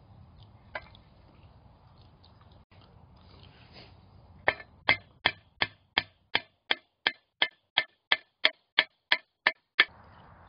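Hammer blows on sheet metal: a steady run of about fifteen sharp strikes, roughly three a second, starting about halfway through, after a few faint clinks.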